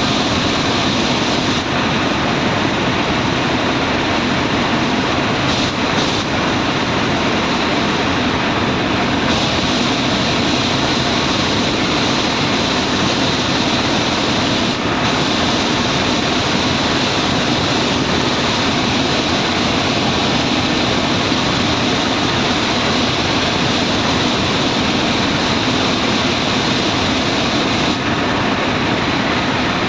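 Steady in-flight helicopter noise from inside the cabin: turbine engines and rotor running at a constant level.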